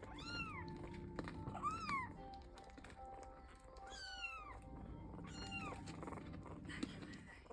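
A kitten meowing four times, short high-pitched calls that rise and then fall in pitch, over a low steady rumble.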